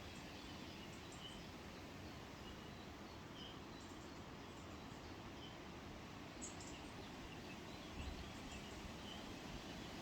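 Quiet woodland ambience: a steady faint hiss with short, scattered bird chirps, and a brief low thump about eight seconds in.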